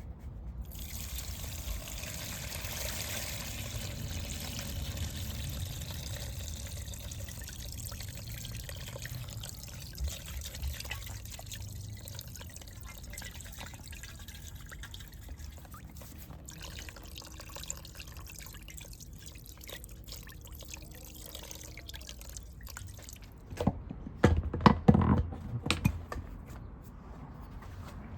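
Old gasoline being drained from a dirt bike's fuel tank, a steady trickling pour that slowly thins out. A few loud clunks come near the end.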